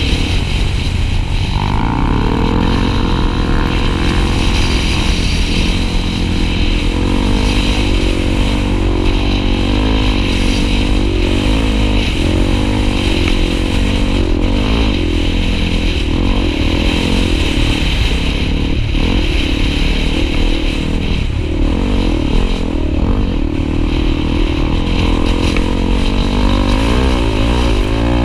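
Honda XR250 Tornado trail motorcycle's single-cylinder four-stroke engine running under way, its pitch rising and falling repeatedly with throttle and gear changes.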